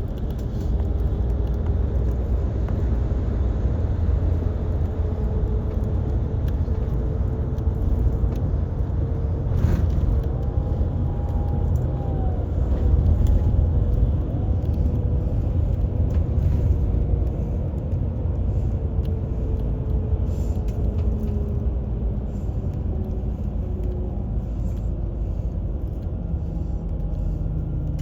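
Steady low rumble of a train in motion, with faint whining tones that slowly drift in pitch.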